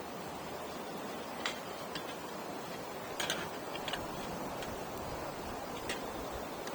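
Campfire burning with a steady hiss and irregular sharp crackles and pops from the burning wood, about half a dozen, the loudest pair a little before the middle.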